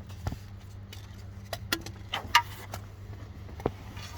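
Scattered metallic clinks and taps of hand tools and parts being handled during a starter motor job, about seven light knocks at irregular intervals, over a steady low hum.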